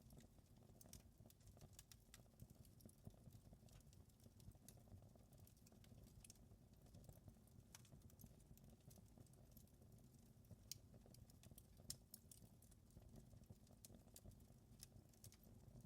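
Wood fire crackling faintly, with scattered small pops and ticks over a soft low rumble.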